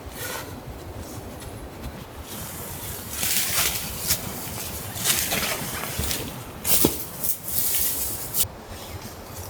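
Irregular rustling and crunching with a few sharp clicks, loudest between about three and eight and a half seconds in.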